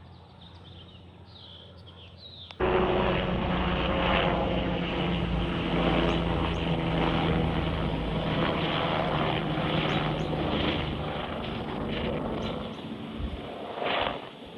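A few faint bird chirps, then loud aircraft engine noise that starts abruptly about two and a half seconds in, with steady engine tones, easing slightly near the end.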